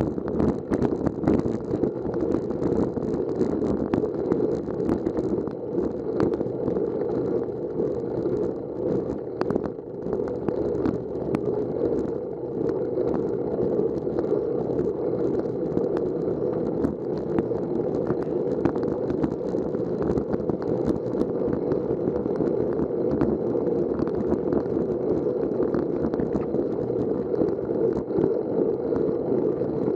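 Bicycle on the move: a steady rush of wind and tyre noise with many small rattles and knocks throughout.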